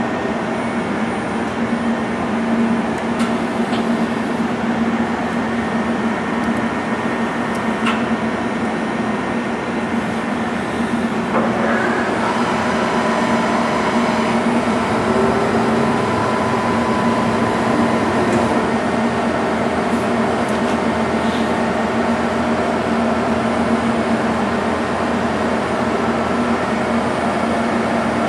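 Okuma LC-50-2ST CNC lathe running through a program: a steady mechanical hum and whine of several held tones, with a few light clicks. About 11 seconds in, the mix of tones shifts as new higher tones come in.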